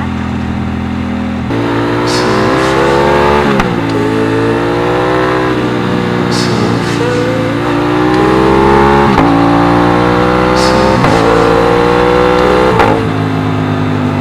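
Aprilia RS660 parallel-twin engine accelerating hard under load. The pitch climbs through each gear and drops sharply at about four upshifts.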